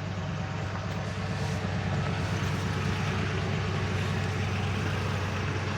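Ford pickup truck's engine idling steadily, running fine after sitting unused for a long while.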